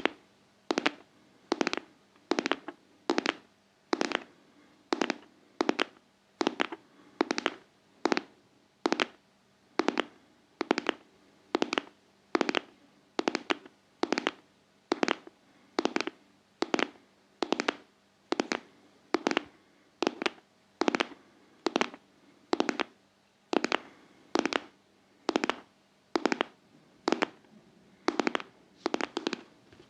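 ASMR tapping: sharp, crisp taps on a hard object in an even, steady rhythm, about one and a half a second.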